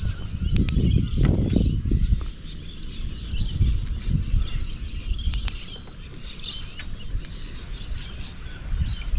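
Birds chirping over an uneven low rumble that is strongest in the first two seconds and again near the end.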